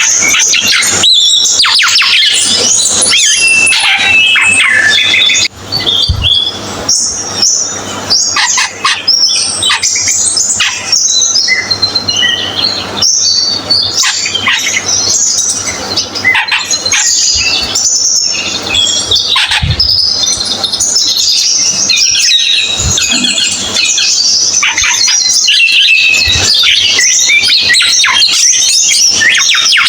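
Cucak keling songbird singing continuously: a rapid, varied stream of high chirps, whistles and trills with hardly a pause.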